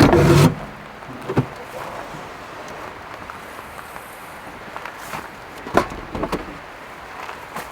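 A heavy thud, like a door or lid shutting, then a few lighter knocks and clicks spaced a few seconds apart.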